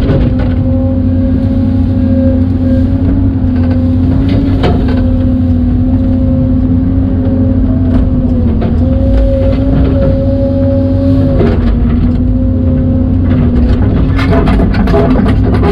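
Excavator running steadily under load, with a constant drone that dips briefly a couple of times. Scattered sharp cracks and knocks, thickest near the end, from the machine working through trees and brush.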